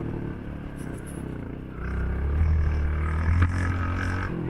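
Motorcycle engine running while riding, getting louder about two seconds in. A single sharp click comes near the end.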